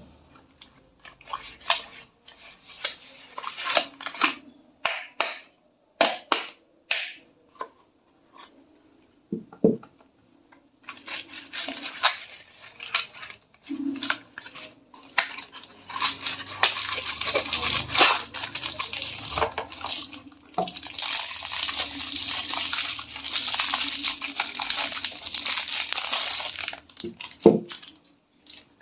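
Close-up handling of wrapped soap bars: first a series of short scratchy strokes, then, about a third of the way in, a long stretch of continuous scratching and crinkling, broken by a few sharp clicks.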